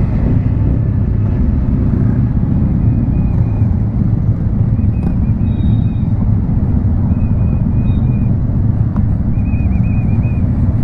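Steady low rumble of motorcycle engines and road noise, with faint brief chirps in the background.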